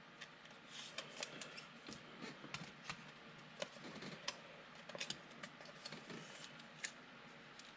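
Faint soft rustling and light, irregular clicks as a trading card is slid into a plastic card sleeve and handled.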